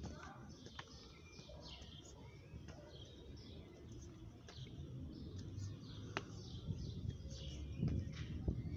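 Small birds chirping over and over, many short chirps that fall in pitch, with a low rumble that grows louder toward the end and a few sharp clicks.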